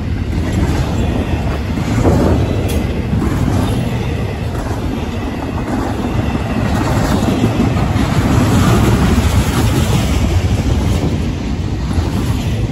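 CSX double-stack container train rolling past close by: a steady, loud rumble and clatter of freight car wheels on the rails.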